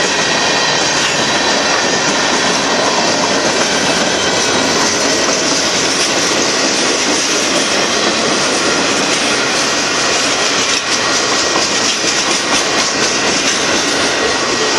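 Freight cars of a Union Pacific manifest train rolling past at speed, a steady loud rush of wheels on rail with a faint high ring from the wheels.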